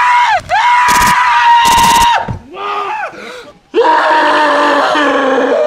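A person screaming: a long high-pitched held scream broken by short gasps, then, after a brief drop, a lower sustained yell that slowly falls in pitch.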